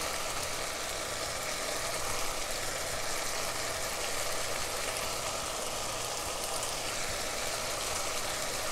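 Sausage, fennel and garlic frying in a pan, a steady sizzle over a low, even hum.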